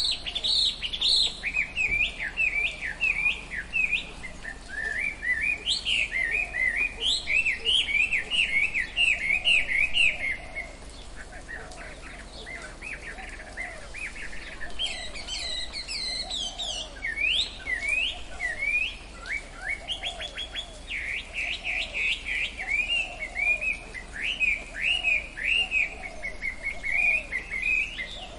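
Tropical forest birds chirping in a busy chorus of quick, rapidly repeated chirps, with fainter lower calls beneath. The chorus thins out for a few seconds about a third of the way in, then picks up again.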